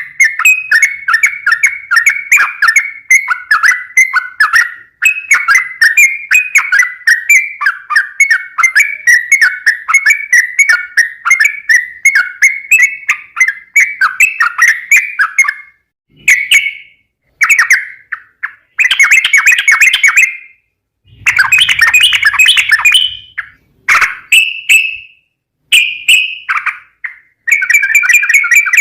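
Yellow-vented bulbul (trucukan) singing loudly in rapid chattering, bubbly phrases. The song runs almost without a break for the first half, then comes in shorter bursts with brief pauses between them.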